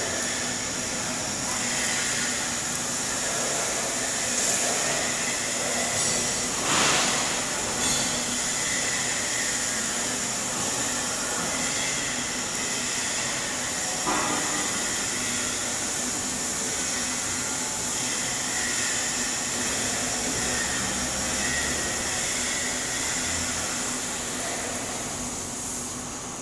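Stick (SMAW) welding arc with an E7018 electrode crackling and hissing steadily during a cap pass, over a steady low hum, with a couple of brief louder pops.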